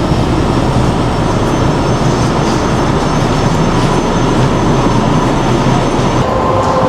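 Vancouver SkyTrain car running, a steady loud rail noise, with a steady whining tone coming in near the end.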